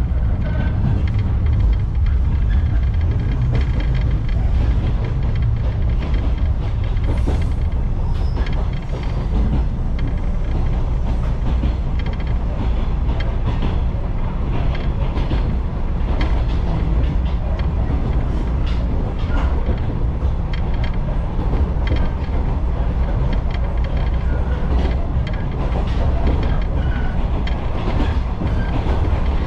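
Steady low rumble of an Echizen Railway electric railcar running along the line, heard from inside the car, with light clicks from wheels and rail joints.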